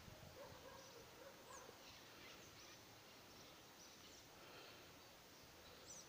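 Near silence: faint outdoor background hiss with a few scattered, faint bird chirps.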